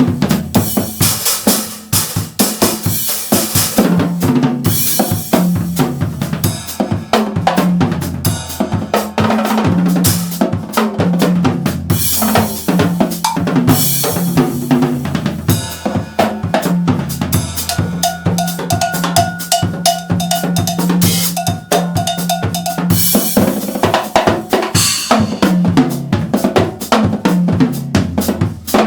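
Yamaha drum kit played continuously in a busy groove, with bass drum, snare and tom strokes and several cymbal crashes. A run of quick, bell-like strikes comes about two-thirds of the way through.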